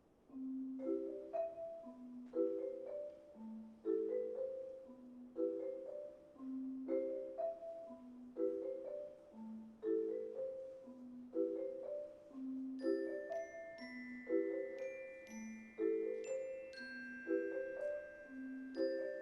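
A percussion ensemble begins a slow waltz on mallet instruments. A marimba plays a repeating three-beat accompaniment, a low note followed by two higher chords, about one bar every second and a half. About two-thirds of the way through, high bell-like glockenspiel notes and long ringing tones join above it.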